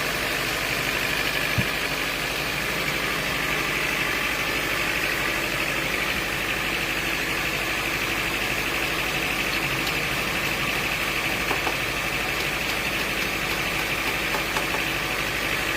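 Sawmill machinery running steadily with an even mechanical drone, and a single short knock about a second and a half in.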